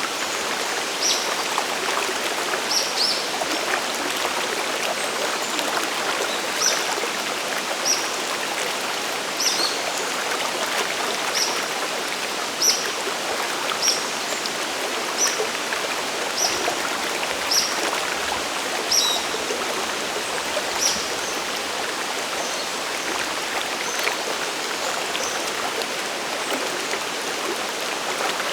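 Steady rush of the Sagiri Falls waterfall and the Nanuki River stream. A short high note repeats about every second or so through the first twenty seconds, then stops.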